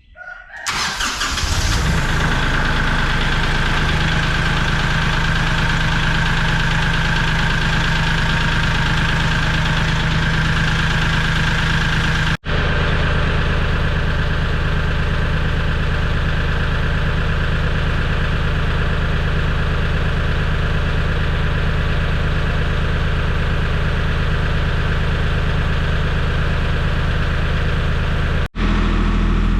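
Kioti compact tractor's diesel engine starting and then running steadily, with two brief breaks in the sound.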